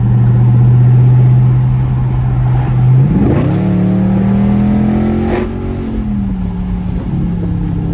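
Dodge Charger Scat Pack's 6.4-litre HEMI V8, straight-piped with its mid muffler and resonators deleted, heard from inside the cabin. It holds a steady note, then about three seconds in accelerates hard with the pitch climbing quickly, holds there for a couple of seconds, and eases back to a lower steady note.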